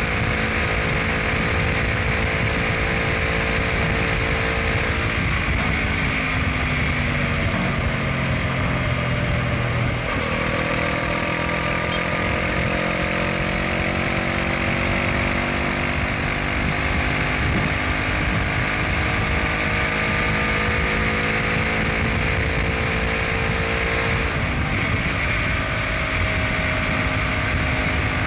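Honda CBR500R's parallel-twin engine running under way, its pitch climbing slowly and shifting abruptly a few times, over steady wind and road noise.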